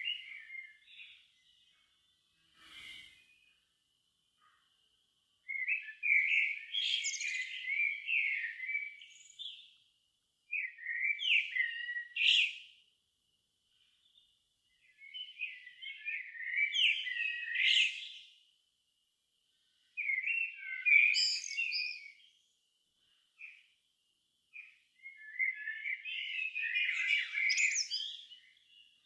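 A songbird singing a series of rich, warbling phrases, each two to four seconds long, with pauses of a second or two between them. A faint thin, steady high note carries on quietly in the gaps.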